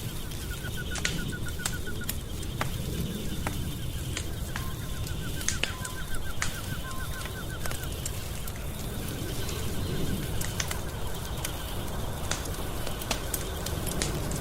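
Wood fire crackling steadily, with frequent sharp pops over a low rumble. Twice a rapid, even trill of high pulses, each lasting a second or more, runs through it.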